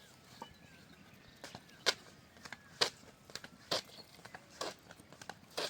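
A series of short, sharp knocks or crunches, the loudest coming about once a second from about two seconds in, with smaller clicks between.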